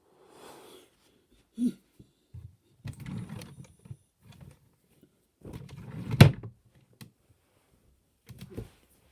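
Irregular knocks, clicks and rustling, as of objects being handled. The loudest is a sharp knock about six seconds in, with a few smaller knocks near the end.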